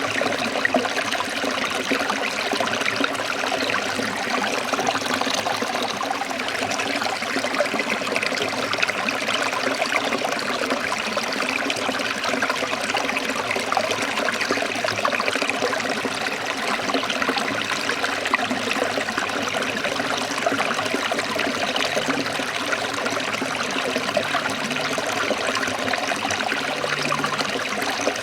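A forest stream trickling and rushing over rocks, a steady flowing sound.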